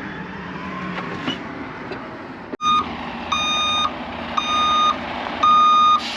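A vehicle engine running steadily. About two and a half seconds in, its reversing alarm starts beeping, a high tone about once a second, as the vehicle backs up.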